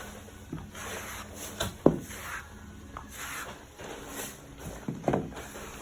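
Skimming blade scraping across wet joint compound on a drywall ceiling in repeated swishing strokes. Two sharp knocks stand out, the loudest about two seconds in and another about five seconds in.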